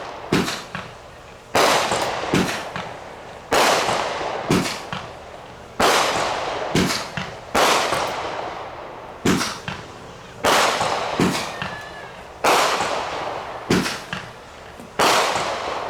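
Consumer aerial fireworks firing in a steady sequence: a short, dull launch thump, then about a second later a loud sharp bang that trails off in crackling, repeating roughly every two seconds.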